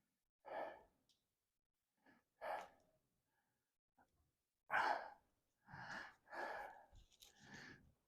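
A person's breathing: a few short, faint exhales with silent gaps between them, the loudest about five seconds in.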